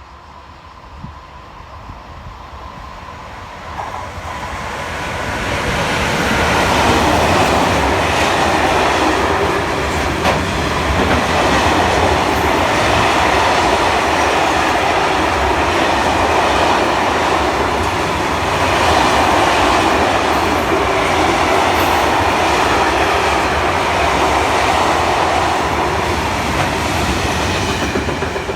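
A train passing through the station: its rumble builds over the first several seconds as it approaches, then the wheels run loudly and steadily over the rails as the cars go by for about twenty seconds, easing off near the end.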